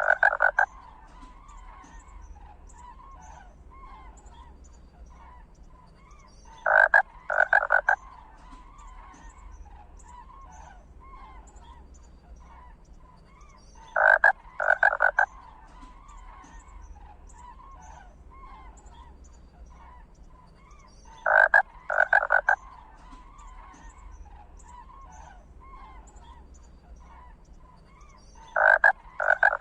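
An animal's rattling, croaking call: two short clattering bursts together, repeated at even intervals about every seven seconds, over a faint steady background.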